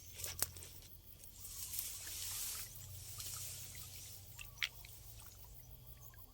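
Water trickling and splashing, with a sharp click about half a second in and another near the end.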